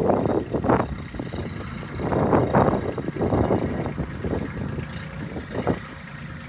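Farm tractor engine running steadily, with irregular gusts of wind buffeting the microphone.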